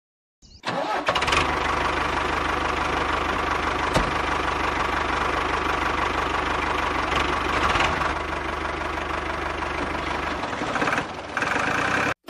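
A motor-driven machine running steadily at a constant speed, starting about half a second in and cutting off abruptly near the end.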